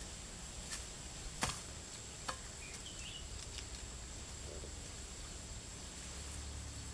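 Three sharp snaps or knocks in the first two and a half seconds, the middle one loudest, over a steady high, thin insect drone, with a couple of faint chirps.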